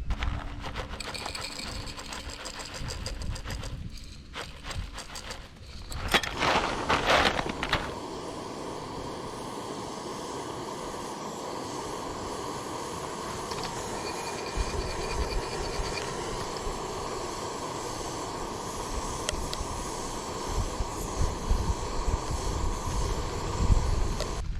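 Clicks and rattles of camp gear being handled, then a portable camp stove burner lights and runs with a steady, even hiss from about eight seconds in, heating water for coffee.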